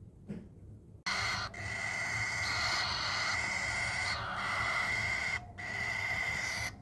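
A young bird of prey chick gives long, rough, hissing screeches, starting suddenly about a second in, with a few brief pauses for breath between them.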